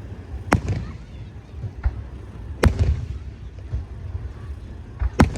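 Aerial fireworks shells bursting in a series of sharp bangs, the loudest about half a second in, near the middle and just before the end, with smaller pops between them over a steady low rumble.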